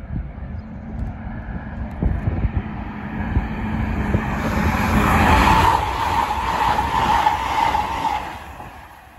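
High-speed train passing through a station at speed: a rumble that builds over several seconds, with a steady high whine over its loudest stretch, then fades quickly near the end.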